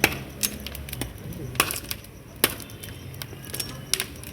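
Wood bonfire burning, crackling with a handful of sharp, irregular pops.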